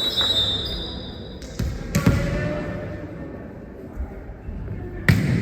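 Volleyball being struck during a rally in a gym: two sharp ball hits, about two seconds in and again near the end, each ringing briefly in the hall, with a fainter knock just before the first.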